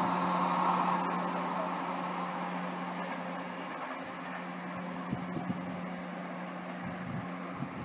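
Eurostar high-speed electric train receding after running through at speed, its rushing rail noise fading steadily away, with a steady low hum underneath.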